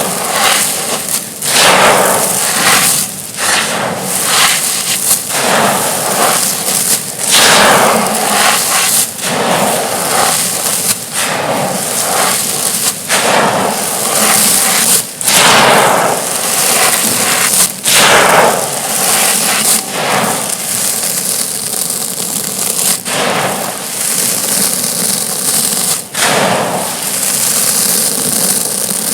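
Thin, soft, dusty stone-like slabs crumbling and crushing with dry crunching and crackling, a sharp snap or crunch every second or two.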